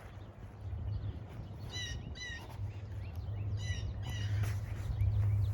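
Birds chirping in short repeated calls over a low steady rumble that grows louder toward the end, the sound of an approaching train.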